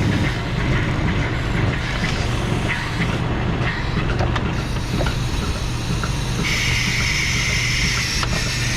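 Milking robot and barn machinery running with a steady low hum and scattered clicks and knocks; about six and a half seconds in, a hiss of air starts and lasts about two seconds.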